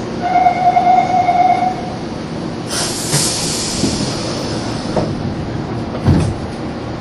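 A train moving at a station platform: a steady high squeal for about a second and a half, then a short burst of hissing, followed by a few dull clunks, the loudest near the end.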